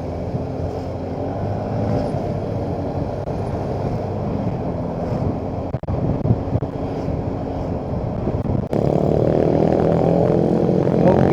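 Motorcycle engine running at riding speed, with road and wind noise; it gets louder from about nine seconds in.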